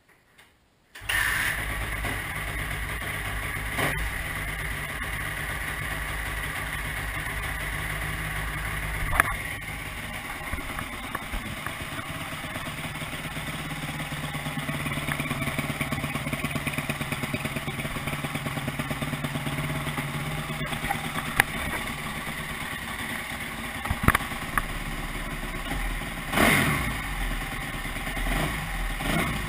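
2009 Suzuki RM-Z250 motocross bike's single-cylinder four-stroke engine starting about a second in and then running steadily, settling to idle, with a few short revs near the end.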